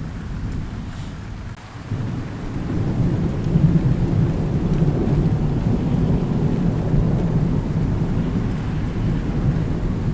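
Thunderstorm with steady rain: a long, low roll of thunder begins about two seconds in, swells, and keeps rumbling over the rain.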